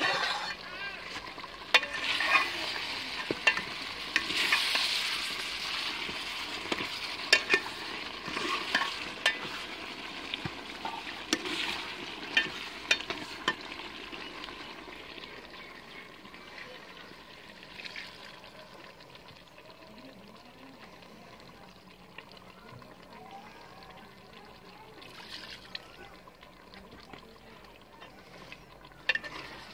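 Potatoes sizzling in an aluminium pot as they are stirred, with the metal spoon clicking against the pot again and again. The sizzle is loud for the first half and dies down after about fourteen seconds.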